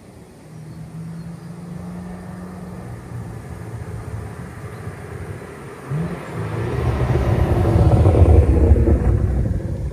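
Cadillac CT4-V Blackwing's 3.6-litre twin-turbo V6 through an AWE SwitchPath valved catback exhaust, running at a steady low hum, then a short rising blip about six seconds in before the exhaust note swells to its loudest around eight seconds in and eases off.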